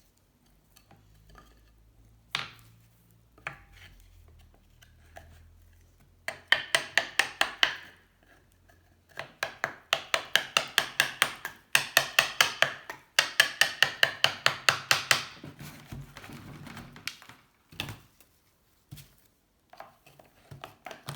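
Rapid, light hammer taps, about seven a second, in several runs: wooden wedges being driven into the joint of a seized Honda C70 engine's aluminium crankcase halves to split them. A few single knocks come between the runs.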